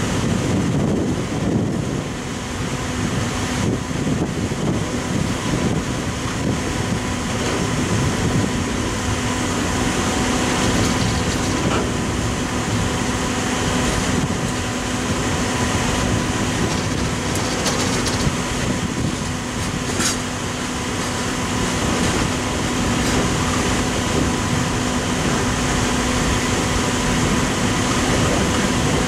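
Coal train's open-top coal cars rolling past: a steady rumble and clatter of steel wheels on the rails, with a steady humming tone under it and a single sharp click about twenty seconds in.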